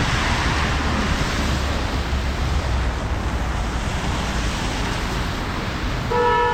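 Typhoon rain and wind buffeting the microphone, a steady rushing noise. About six seconds in there is a brief pitched tone, like a horn.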